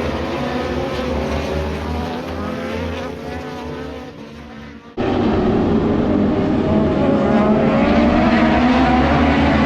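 Racing motorcycles at high revs on track, the engine sound fading away as they pass. About halfway through it cuts off suddenly to a louder stretch of bikes, the engine pitch rising and falling as they go by.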